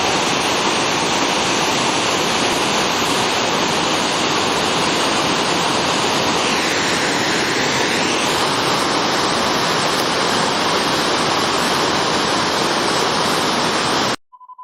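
Waterfall pouring, a loud, steady, even rush of falling water that cuts off abruptly near the end.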